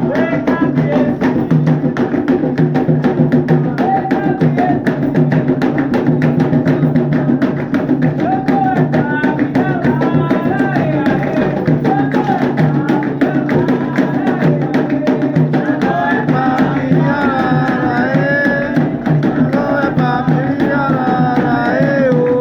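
Candomblé hand drums (atabaques) playing a fast, steady rhythm under a sung chant. The melody grows stronger in the second half.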